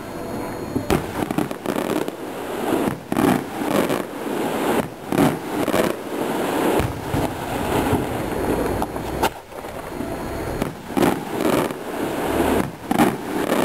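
Fireworks display: shells bursting in an irregular series of a dozen or more loud bangs, with crackling between them.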